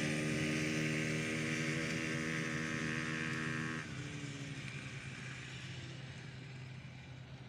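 Small petrol engine running at a steady speed, then about four seconds in its higher tone drops off abruptly and the engine sound fades away.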